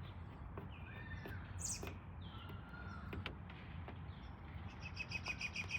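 Birds chirping faintly in short scattered calls, ending in a rapid run of repeated notes, over a steady low background rumble with a few faint clicks.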